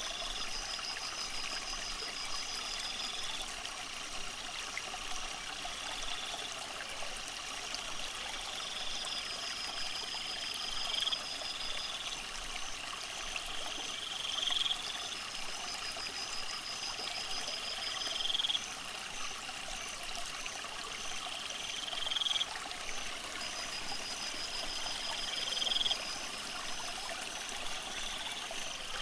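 Aquarium filter water trickling and splashing steadily into the tank. A high, rising chirp repeats about every four seconds and each one cuts off sharply.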